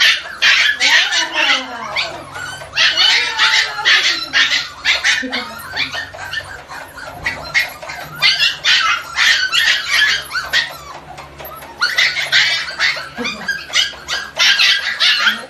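A dog yapping in rapid runs of sharp barks, with short pauses between the runs, and a few whines rising and falling in pitch in the first two seconds.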